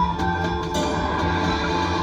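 Electronic slot machine game music playing steadily from a fixed-odds betting terminal.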